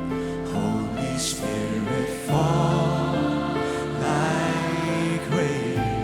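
Slow contemporary worship band music with long held chords over a bass line, changing chord a little over two seconds in and again near the end.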